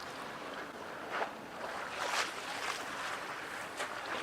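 Harbour waves lapping and splashing against the waterfront edge, a soft splash every second or so over a steady wash.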